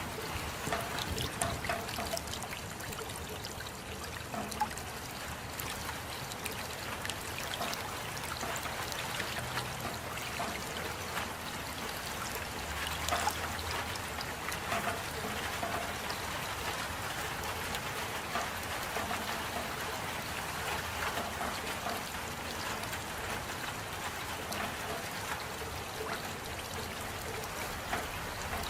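Steady rain, a constant wash of water sound dotted with many small drop ticks and a trickling, running-water quality.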